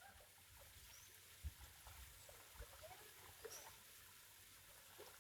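Near silence, with faint scattered ticks and a few faint short high chirps.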